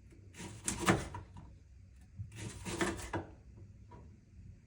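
Knife slicing through leeks onto a wooden cutting board: two runs of quick cuts, each about a second long.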